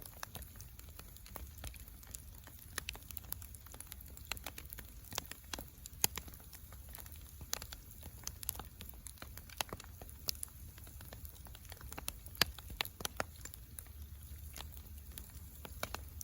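Wood fire crackling: irregular sharp pops and snaps, with two louder pops about six and twelve seconds in, over a low steady rumble.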